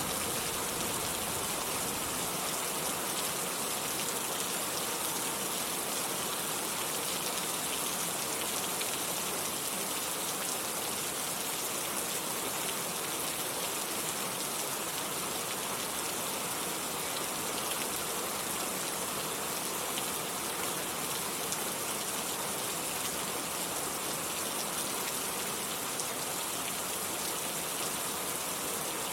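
Steady rain falling, an even, unbroken hiss. The low tail of a thunder rumble dies away in the first couple of seconds.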